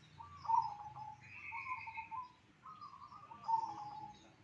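Caged songbirds singing, a run of short repeated warbled phrases, with a second, higher and thinner bird's note joining for about a second early in.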